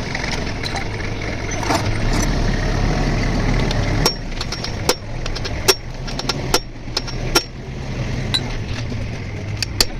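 An engine running steadily, and from about four seconds in a string of sharp metal clinks and taps, roughly one or two a second, from tools working on metal parts.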